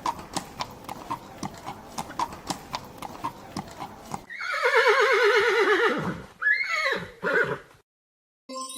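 Recorded horse sound effect: hooves clip-clopping at a steady pace, about four a second, then about four seconds in a loud whinny with a quavering pitch that falls away, followed by a shorter second whinny.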